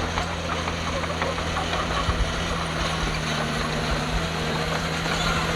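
Heavy diesel engine of earthmoving machinery running steadily, with scattered light clicks and rattles over its hum.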